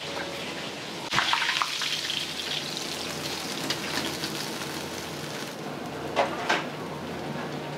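Pork belly frying in hot oil: a steady sizzling hiss that grows louder about a second in, with scattered crackles and two sharp clicks near the end.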